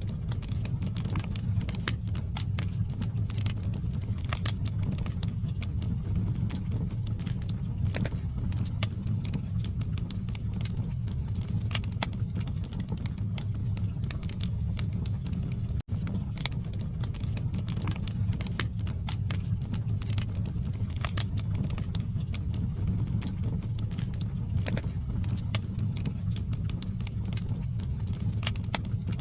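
Log fire burning in a fireplace: a steady low rumble with irregular crackles and pops from the burning wood, and one split-second dropout about sixteen seconds in.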